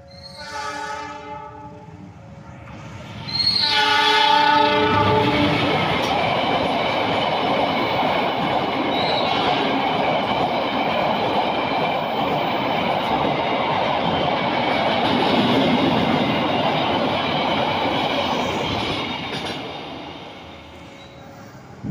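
Diesel locomotive's multi-tone horn sounding a short blast, then a longer, louder one about three seconds in, as a warning for the level crossing. A train of tank wagons then rolls past close by, with wheel rumble and clickety-clack over the rail joints, dying away near the end.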